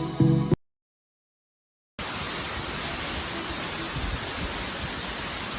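Electronic background music cuts off half a second in, then after about a second and a half of dead silence comes the steady, even rush of a waterfall.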